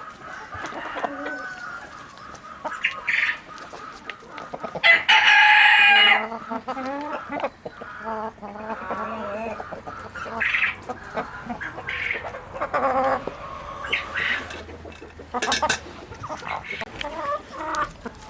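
A flock of chickens clucking and calling, with many short calls throughout and one loud call lasting about a second, about five seconds in.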